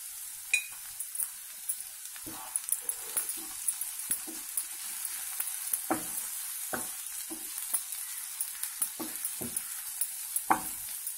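Ivy gourd (tindora) and onion pieces sizzling in a frying pan as a spatula stirs through them, with irregular knocks and scrapes of the spatula on the pan over the steady hiss of the frying.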